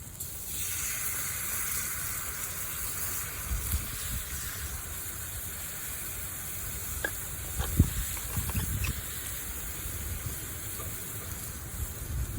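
Water just added to a hot cast iron pan on a campfire, sizzling and hissing into steam. The sizzle is strongest at first and then settles to a steadier hiss, with a few light clicks about seven to eight seconds in.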